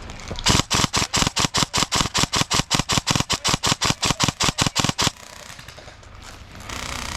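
Airsoft gun firing a rapid string of about 26 shots, about six a second, for roughly four and a half seconds, then stopping suddenly.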